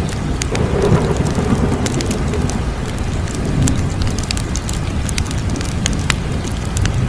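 Wood fire crackling: scattered sharp pops and snaps, several a second, over a steady low rumble of burning.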